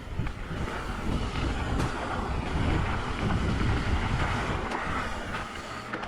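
Mountain bike rolling fast along a dirt trail: wind buffeting the microphone over the rumble of the tyres, with scattered sharp clicks and rattles from the bike.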